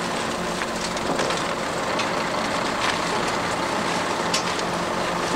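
Heavy vehicle engine, likely a diesel, running steadily, with scattered light clicks and knocks over it.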